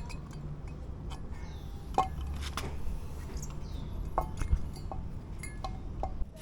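Scattered clinks and taps of metal tools and parts being handled, a few of them ringing briefly.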